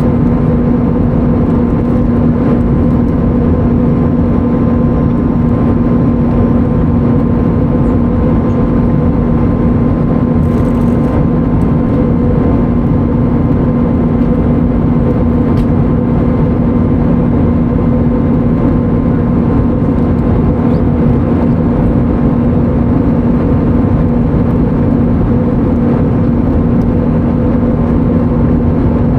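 Airbus A320neo cabin noise in flight: a steady engine and airflow rush with a constant low hum and fainter steady tones above it, unchanging throughout.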